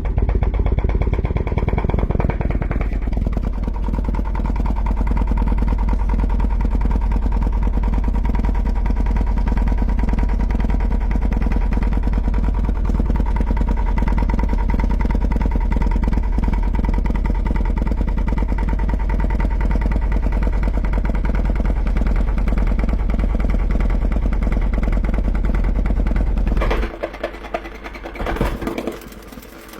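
A 15-inch Explod subwoofer, its voice coil already half burnt, driven hard with a steady, loud, distorted low bass tone. The bass cuts out near the end, followed by a brief crackling as the speaker fails.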